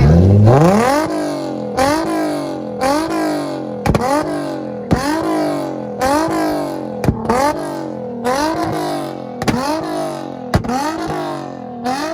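Nissan Z car's V6 engine revved hard from idle, then blipped over and over at about one rev a second, each rev climbing and falling back, with a sharp crack from the exhaust at every one.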